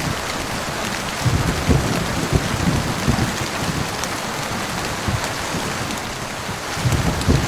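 Steady heavy rain hissing down, with low rolling thunder rumbling underneath, swelling about a second in and again near the end.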